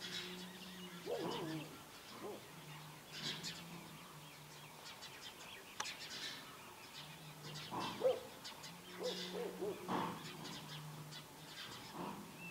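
Birds calling: a low, drawn-out hooting repeated again and again, with many short high chirps over it.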